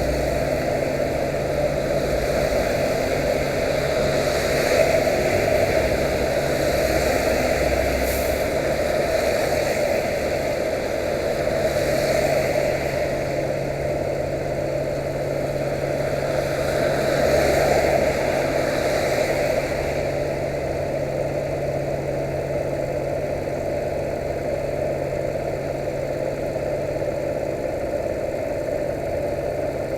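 Yamaha YBR 125's single-cylinder four-stroke engine running at a steady speed, under a steady rushing noise that swells a few times.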